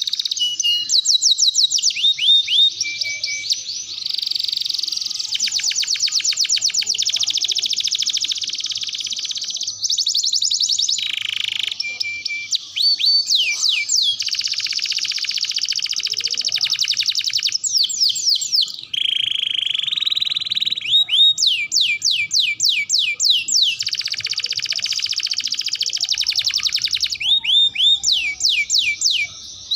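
Canary singing a long, continuous song of rapid trills and runs of fast, repeated sweeping notes, switching phrase every second or two.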